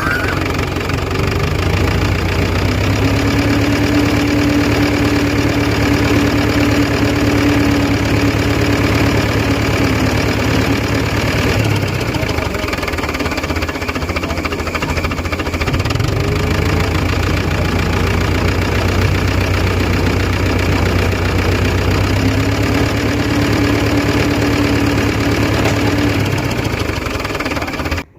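Fordson Super Major tractor's four-cylinder diesel engine running hard, revving up and holding about two seconds in, easing off around halfway, then revving up again, as when working a crane under load.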